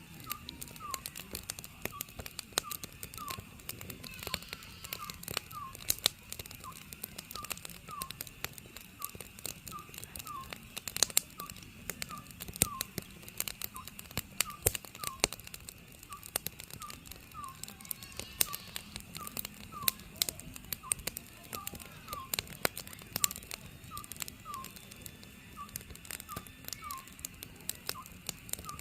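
Oriental scops owl calling over and over in short, falling two-note hoots repeated at an even pace, while a wood fire crackles with frequent sharp pops.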